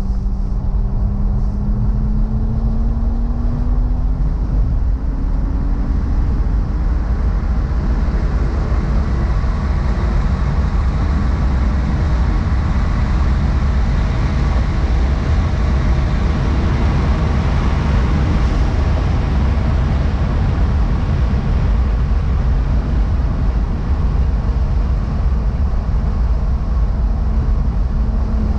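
2011 BMW 135i's turbocharged N55 straight-six, heard from inside the cabin while driving at speed. Its note rises steadily over the first several seconds as the car accelerates in gear, then a dense low rumble of road and wind noise covers it, and a steady engine tone comes back near the end.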